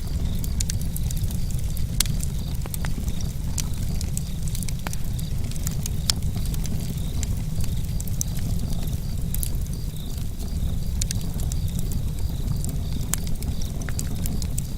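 Wood campfire burning with a steady low rumble of flames and frequent sharp crackles and pops from the burning wood. Crickets chirp in a steady, even rhythm underneath.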